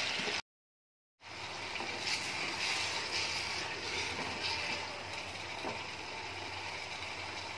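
Brinjal curry with masala paste sizzling in a steel pan as a wooden spatula stirs it through. A complete dropout of under a second breaks it near the start.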